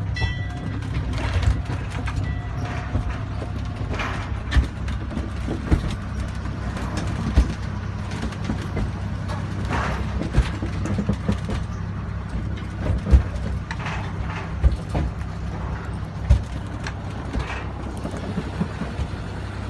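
Mine train running along its track, heard from aboard: a steady low rumble with irregular knocks and rattles from the wheels and cars.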